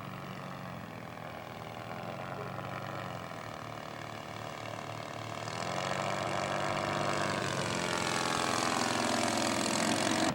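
Quarter-scale radio-controlled model airplane's spark-ignition gas engine running steadily in flight. It grows louder from about halfway as the plane comes closer.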